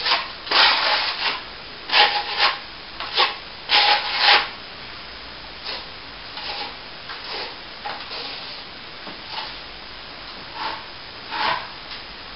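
Hand strokes rubbing across a plaster wall, sanding or scraping: a quick run of loud strokes, then fainter, more spaced ones, with two stronger strokes near the end.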